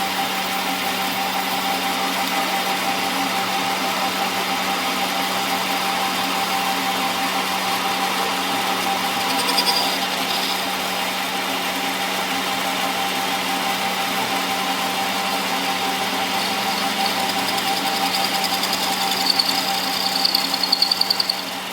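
A workshop machine running steadily with a constant hum. A brief high-pitched squeal comes about halfway through, and a run of rapid high-pitched pulses comes near the end.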